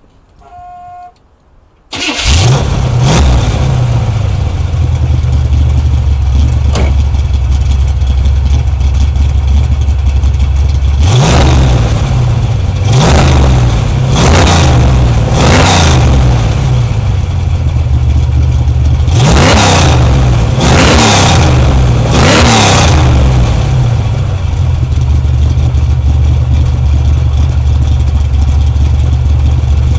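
1970 Chevrolet Camaro engine starting about two seconds in and settling to idle, then blipped with quick revs about ten times. It is heard through headers, straight pipes and a muffler on each side. A short electronic beep sounds just before the start.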